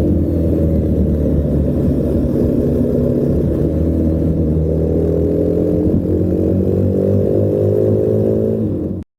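Honda Rebel 250 motorcycle engine running steadily while riding, its pitch drifting gently up and down. It cuts off abruptly near the end.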